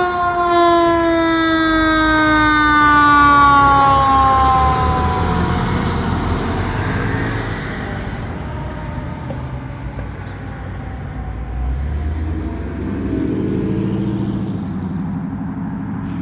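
Fire engine siren winding down, its wail falling slowly in pitch and fading over several seconds, followed by the truck's low engine rumble as it drives on.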